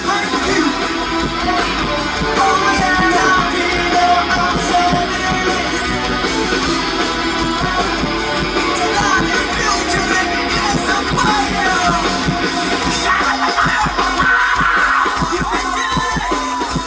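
Live rock band playing with a singer over electric guitar and drums, loud and dense throughout.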